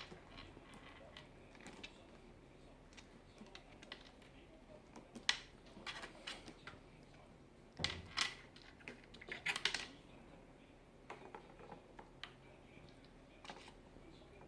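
Irregular light taps and clicks, sparse at first and bunched together in a louder flurry about halfway through.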